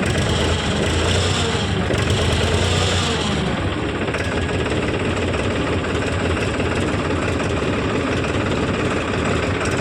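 Heavy diesel engine of earth-moving or farm machinery running steadily, its note shifting slightly about three and a half seconds in.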